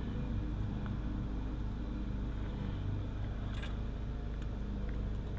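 A steady low mechanical hum, with a brief faint rustle about three and a half seconds in.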